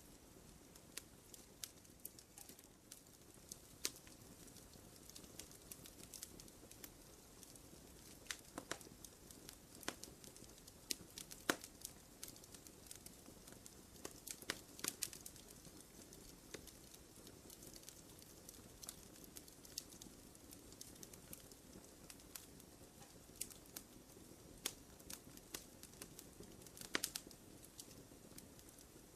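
Small wood campfire crackling softly: a low steady hiss with irregular sharp pops and snaps, a few louder ones scattered through.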